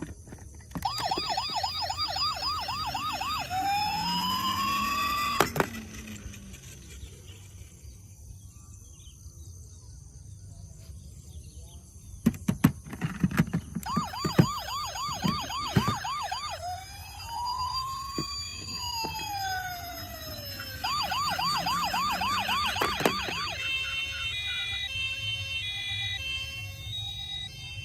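Toy emergency vehicles' electronic sirens: a fast warbling yelp overlapping slower rising-and-falling wails, in two bouts with a quieter gap between that holds a few clicks. Near the end a short repeating beeping electronic tune plays.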